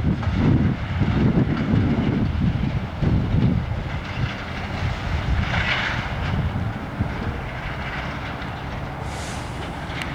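Freight train rolling past on the rails, a low rumble that eases off after the first few seconds.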